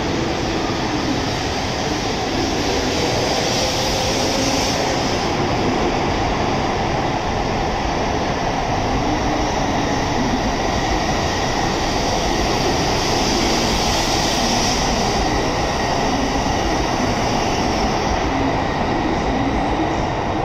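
N700S Shinkansen train pulling out of the platform and passing close by, a loud, steady rush of running noise from its wheels and motors, with a faint high tone.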